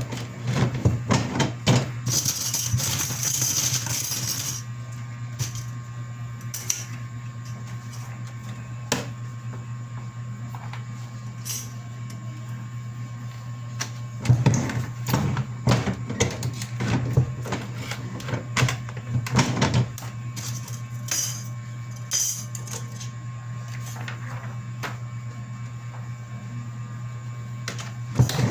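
Printer running with a steady low hum and irregular clicks and clatter, busiest for a few seconds halfway through.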